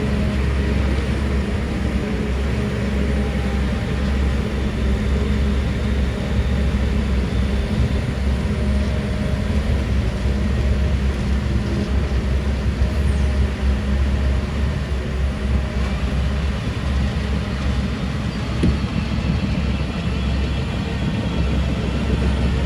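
Heavy diesel construction machinery running steadily, a low engine drone with a wide noisy rumble.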